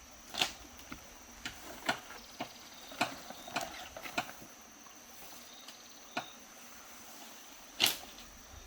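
Irregular sharp knocks and taps on wood during house repair work, about a dozen of them spaced unevenly. The loudest knock comes just after the start and another near the end.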